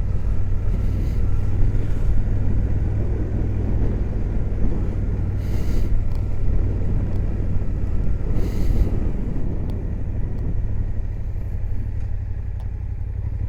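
Suzuki GSX-8S parallel-twin motorcycle engine running steadily at cruising speed, heard through a helmet-mounted microphone with wind rumble. Two brief hissing whooshes come about halfway through, and the engine note eases a little near the end.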